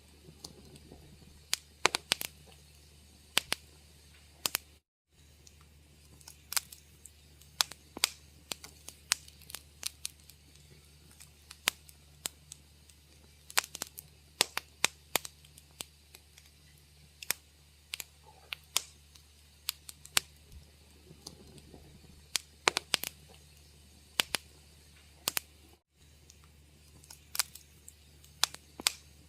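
Wood fire in a fireplace crackling, with irregular sharp pops and snaps over a low steady hum. The sound cuts out for a moment twice.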